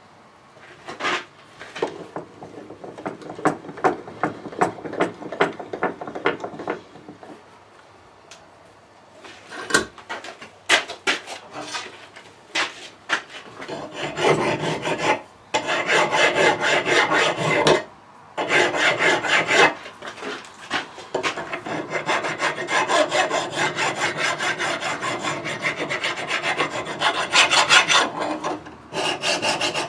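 Bandsaw cutting through a piece of metal, a steady rasp with a few short breaks in the second half. Before that, scattered clicks and scraping as the work is handled.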